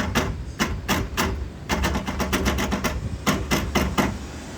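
Rapid, repeated metallic knocking from a Fiat Palio's front right half-shaft as it is struck, about four clunks a second, stopping about four seconds in. The clunks come from play between the half-shaft splines and the CV joint housing, worn inside because the joint's material is softer than the shaft's.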